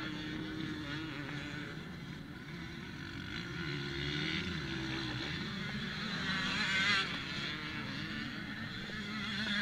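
Off-road motorcycle engines running, with a steady low idle and a higher note that rises and falls as a bike revs, loudest about seven seconds in.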